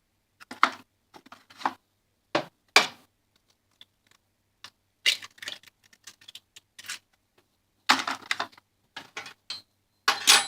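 Eggs cracked against the edge of a microwave jug and their shells broken open, heard as a string of sharp cracks and short crackly rustles with pauses between.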